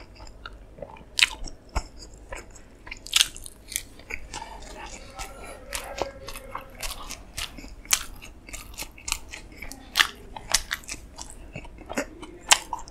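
A person chewing and biting food close to the microphone, with many short, sharp mouth clicks.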